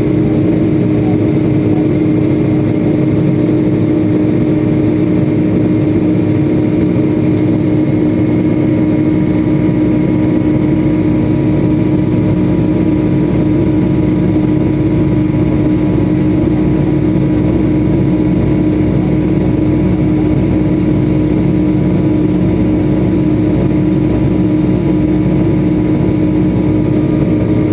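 Steady drone of a Boeing 757-200's twin jet engines and rushing air heard from inside the passenger cabin, with a constant hum.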